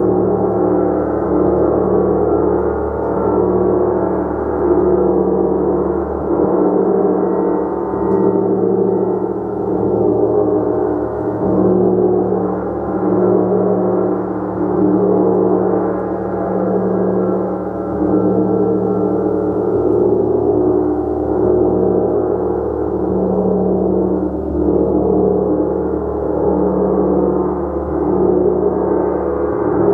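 A gong played continuously, a dense wash of overlapping ringing tones that swells and ebbs in slow waves every couple of seconds, without clear separate strikes.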